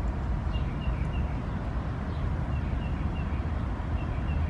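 A steady low rumble with a small bird chirping in short runs of about three quick high notes, several times.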